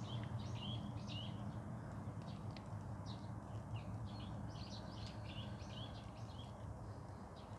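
Small birds chirping, many short high notes repeated throughout, over a steady low hum.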